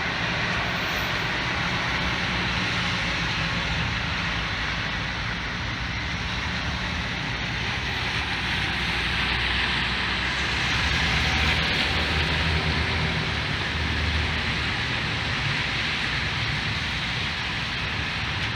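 Steady hiss of rain and tyres on a wet road, with a low vehicle hum underneath.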